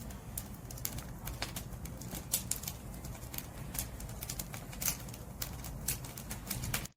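Firewood burning in an open fire: irregular sharp crackles and pops over a low, steady rumble of flames. The sound cuts out abruptly at the very end.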